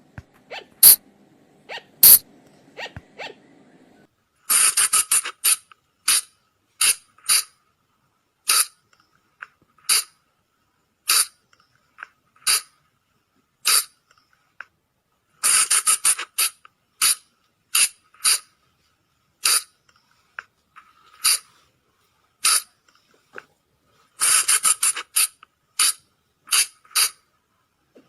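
Sunda flying lemur (colugo) calling: short, sharp, high squeaks, coming in quick bunches that thin out to single calls about one a second, a pattern heard three times. A faint low hum with a few clicks runs under the first few seconds.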